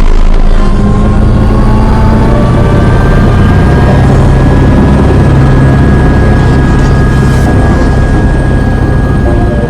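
AS355 Twin Squirrel helicopter's turbine engines running during engine start, over a loud low rumble. A thin whine rises in pitch over the first few seconds as a turbine spools up, then holds steady.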